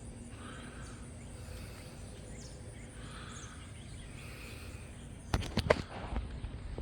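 Homing pigeons at their loft: a quiet outdoor background, then a brief flurry of sharp wing claps about five seconds in.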